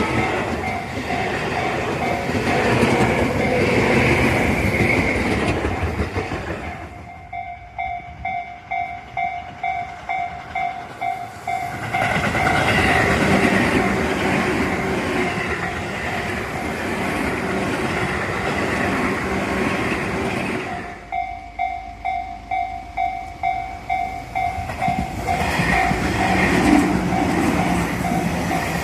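Tobu Tojo Line electric trains passing at speed, with wheels clattering over the rail joints. This comes in three loud stretches. In the two gaps between them, a level-crossing warning bell rings steadily at about two strokes a second.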